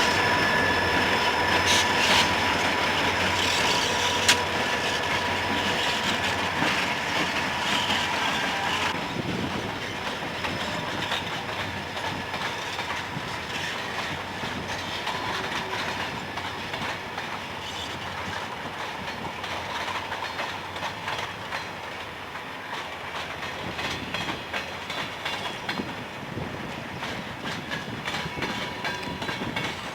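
Train rolling past, its wheels clicking steadily over the rail joints. A steady high tone cuts off about nine seconds in, and the whole sound slowly fades as the train draws away.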